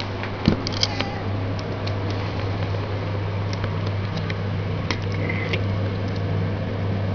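A steady low hum under a hiss, broken by scattered light ticks and a single thump about half a second in.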